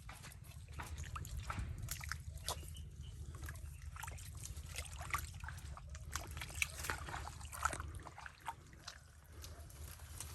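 Wet mud and shallow water sloshing and trickling, with many scattered irregular clicks and crackles over a steady low hum.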